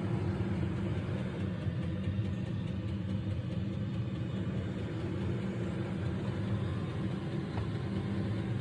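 Diesel air heater running steadily past its glow-plug startup, a low even hum of its blower and burner.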